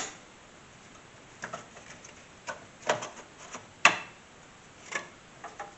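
Irregular clicks and taps of computer parts being handled and fitted inside an open desktop PC case, about half a dozen, the sharpest nearly four seconds in.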